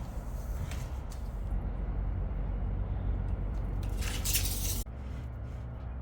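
Workshop machinery running with a steady low hum, with light metallic clinks. About four seconds in there is a short burst of hiss that cuts off abruptly.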